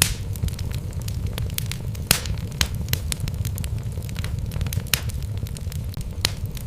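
Wood logs burning in a fireplace: a steady low rumble of the flames with irregular sharp crackles and pops, a few louder snaps standing out.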